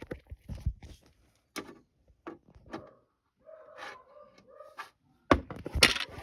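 Knocks, clicks and rustling from a handheld camera being handled close to the microphone, with a short pitched sound about halfway through. Near the end the noise turns loud and dense as the camera is fumbled and nearly dropped.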